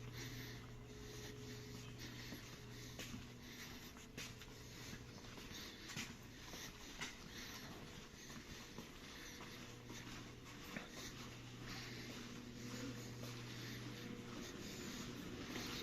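Faint room tone inside a cruise ship: a steady low hum with a few soft clicks and taps scattered through it.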